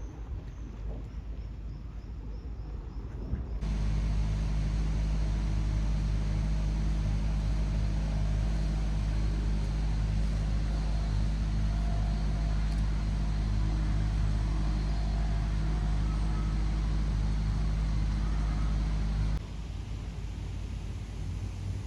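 A steady low mechanical rumble with a constant hum, like an engine running at an even speed. It starts abruptly about four seconds in and cuts off suddenly near the end.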